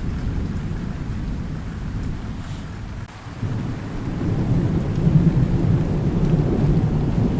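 Thunderstorm: rain falling under low rolling thunder. The rumble sinks about three seconds in, then swells again and stays loud.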